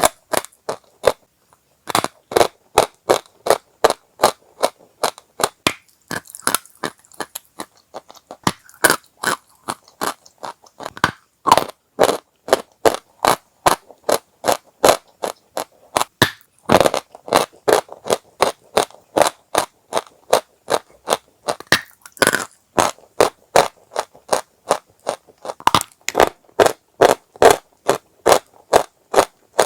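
Dry chalk being chewed: a steady run of crisp crunches, about two to three a second, with a short break near the start.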